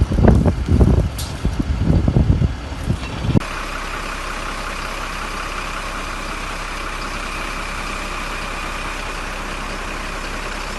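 Wind buffeting the microphone in uneven gusts. About three seconds in it cuts off suddenly, giving way to a steady, even noise of unclear source.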